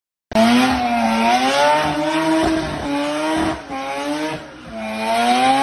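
Mazda RX-7 rotary engine revving hard in repeated rising and falling pulls during a burnout, over spinning, squealing tyres. The sound cuts in a moment after a brief silence.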